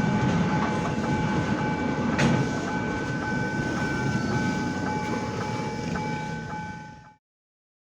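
Freight train wagons rolling past, the wheels clicking regularly over the rail joints under a steady high whine, with one sharp clack about two seconds in. The sound cuts off abruptly near the end.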